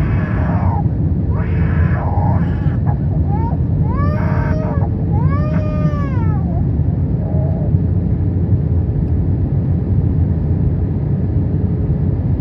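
Airbus A321 cabin noise on approach with flaps extended: a steady, loud rumble of engines and airflow, with a faint steady hum. A young child in the cabin cries out a few times in wailing, rising-and-falling cries between about three and seven seconds in.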